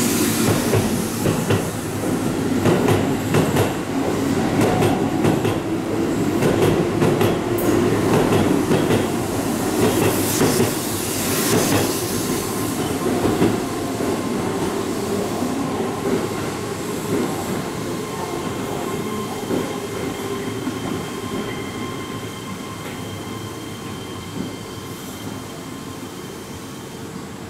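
Keihan 6000 series electric commuter train pulling out of the station and running away, its wheels clattering over the rail joints. The sound fades slowly, and from about halfway a thin steady wheel squeal rises as the train takes the curve.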